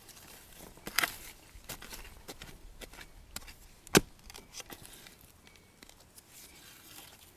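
Scattered knocks, scrapes and rustling from digging bamboo shoots out of the ground, with one sharp strike about four seconds in.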